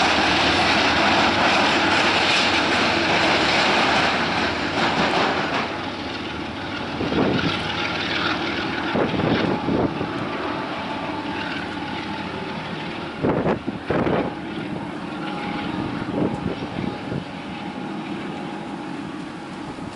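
Double-stack intermodal freight train rolling past, its wheels and cars rumbling loudly, then easing and slowly fading as the rear diesel locomotive goes by with its engine droning and the train moves away. A few short low thumps about a third of the way in and again near the middle.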